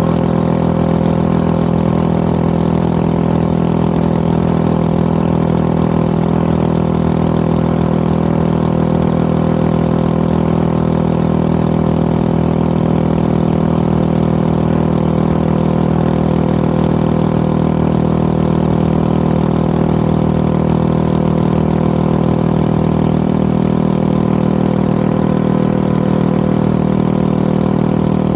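Yamaha WR250R single-cylinder motorcycle with an FMF PowerCore 4 exhaust, running at a steady engine speed while cruising, its pitch holding level throughout.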